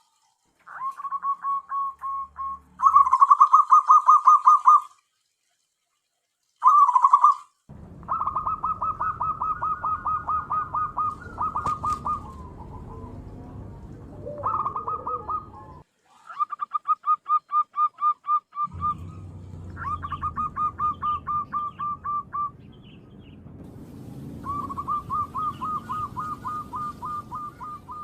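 Zebra dove (perkutut) cooing: phrase after phrase of fast, staccato coo notes, repeated with short pauses between them.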